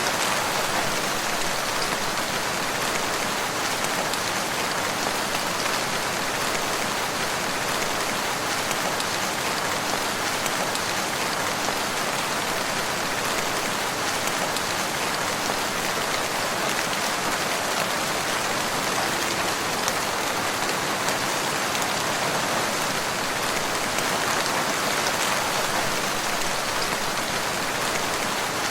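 Steady rain falling, a dense even patter of drops on surfaces with no change in strength.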